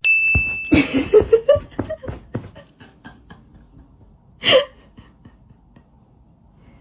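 A person laughing in a run of quick bursts that fade away, followed about four and a half seconds in by one short, louder vocal sound.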